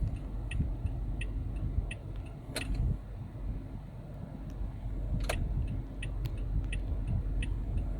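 Inside a Toyota Camry's cabin: a low steady rumble with light clicks repeating roughly every two-thirds of a second, and two louder clicks about two and a half and five seconds in.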